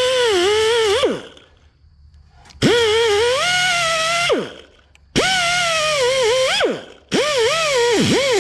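Hand-held grinder working steel welds in short runs: each run starts sharply in a high whine, the pitch sags and wavers as the disc is pressed onto the metal, and the whine falls away as the tool winds down. There are three or four runs, with short pauses between them.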